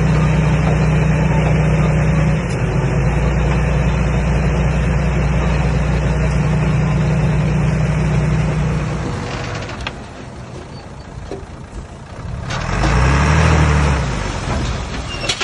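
Komatsu D21A bulldozer's diesel engine running steadily. About nine seconds in it drops away, then near the end a short rev rises and falls.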